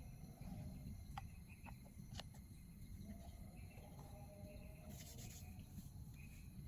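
Faint insects chirping in the forest over a steady low rumble, with a few light clicks and a short hiss about five seconds in.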